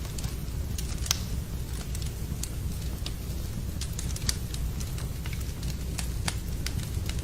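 Wood fire crackling in a fireplace: sharp, irregular pops and snaps over a steady low rumble, with rain noise mixed in.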